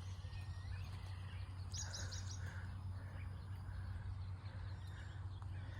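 Faint songbird chirping: a short, rapid run of high chirps about two seconds in, with softer lower notes repeating about twice a second, over a steady low outdoor hum.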